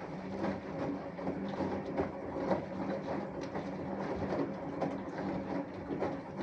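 Samsung Eco Bubble washing machine with an inverter motor running a wash: a steady hum with irregular soft knocks as the laundry tumbles in the turning drum.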